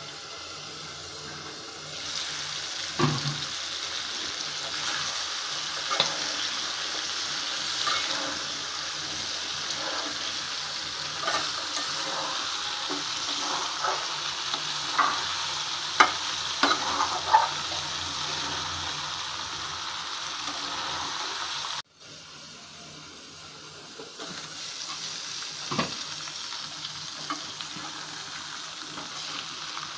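Spiced chicken sizzling as it fries in an aluminium pot, with a spatula scraping and clicking against the pot as it is stirred. About two-thirds of the way through the sizzle cuts off suddenly, then comes back quieter with the odd spatula click.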